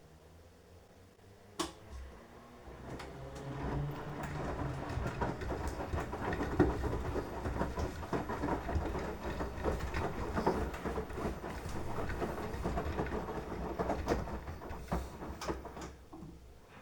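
Beko washing machine drum turning during the wash, laundry and water tumbling and sloshing over a low motor hum. It starts about two seconds in after a single click and dies away near the end as the drum stops.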